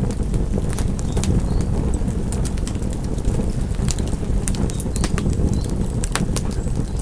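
Wood fire crackling: irregular sharp snaps and pops over a steady low rumble of the burning fire.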